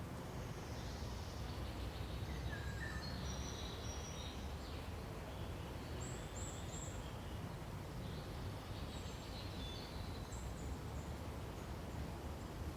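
Forest birds giving scattered short, high chirps and twitters, including three quick high notes about six seconds in, over a steady low wind-like rumble.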